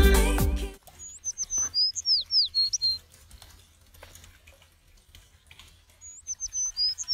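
Small songbird singing a short, high whistled phrase of quick downward-sliding notes, twice, about five seconds apart. Background music cuts off just before the first phrase.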